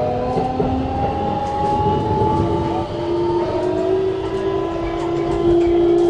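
Keikyu New 1000 electric train's Siemens GTO VVVF inverter whining from inside the car. Several tones climb slowly, then shift to a new steady tone about halfway through. Under the whine there is a low rumble of wheels on rail.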